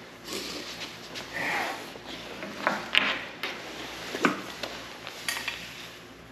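Irregular clicks, light knocks and a brief scrape of hard objects being handled, with the sharpest clicks about three and four seconds in.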